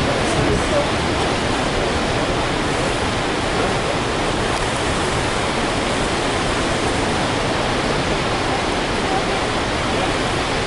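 Steady, loud rush of floodwater pouring from a dam in a high release, an even roar like a waterfall.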